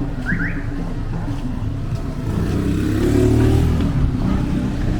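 A motor vehicle's engine passing close by over a constant street rumble, swelling to its loudest a few seconds in and then fading.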